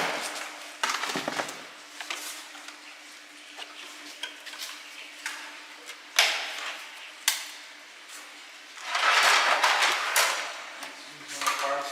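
Clicks, knocks and clatter of hard plastic fairing panels and small metal parts being handled and fitted onto a motorcycle, with a longer rubbing, scraping noise of about a second and a half some nine seconds in.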